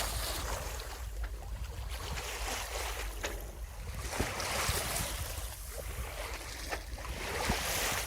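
Wind buffeting the microphone over water washing along the hull of a Viking 28 sailboat under sail, the hiss of the water swelling and fading every second or two. A few small clicks.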